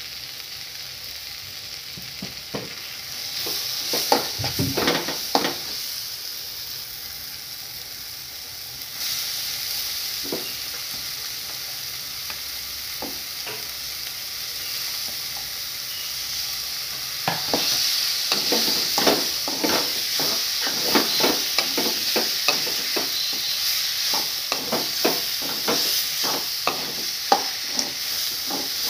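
Masala frying and sizzling in a kadai, with a steel spatula scraping and knocking against the pan. Raw prawns go into the pan, the sizzle grows louder, and the second half is quick repeated spatula strokes as the prawns are stirred through.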